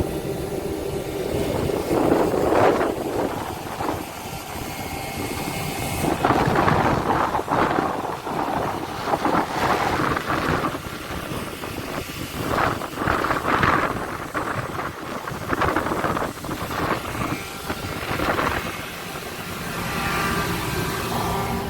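Wind buffeting the microphone in irregular gusts aboard a passenger ship, over a steady low rumble.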